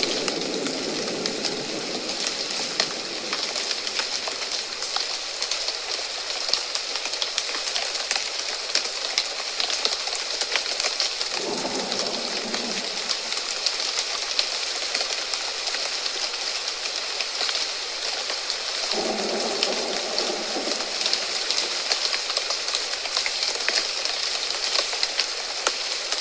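Thunderstorm sound effect from a smartphone weather app: steady rain hiss with pattering drops, and soft low rumbles of thunder near the start, about 11 seconds in and about 19 seconds in.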